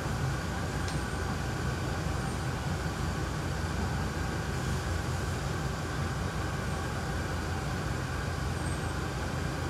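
Hyundai Rotem R-train electric multiple unit running at speed, heard from inside the car: a steady rumble of wheels on track with a faint steady whine above it.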